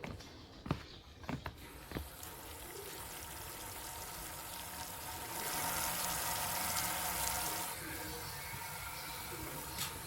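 Water running steadily, as from a tap, swelling for a couple of seconds midway. A few sharp knocks in the first two seconds.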